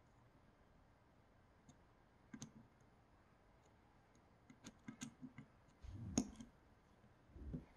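Small parts of a 3D-printer extruder clicking and knocking as they are handled and fitted together by hand: scattered light clicks, a quick run of clicks, then a louder knock and a low bump near the end.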